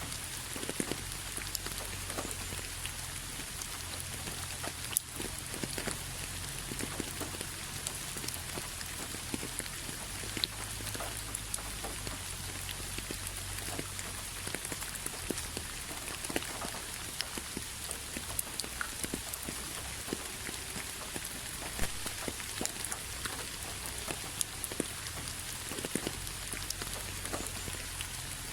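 Steady rain with many individual drops ticking and pattering on a hard surface, at an even level.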